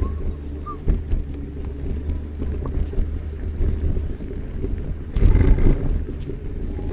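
Steady low rumble of city street traffic with wind buffeting the microphone, and a louder rush about five seconds in.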